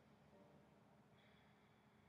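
Near silence, with a faint steady high tone coming in about a second in.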